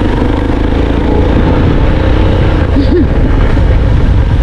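Motorbike engine running steadily while being ridden, a loud, even rumble.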